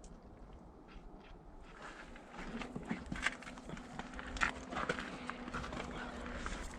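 Footsteps walking, with scattered light clicks and knocks that get busier about two seconds in, over a faint steady hum.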